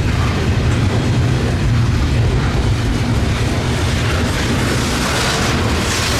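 Freight train passing, a steady low rumble with a wash of wheel and rail noise.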